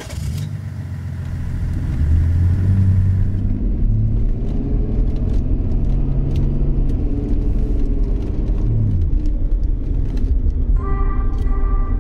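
A 2001 BMW 730d's straight-six turbodiesel running, its pitch stepping up and down and dropping away about nine seconds in. Music comes in near the end.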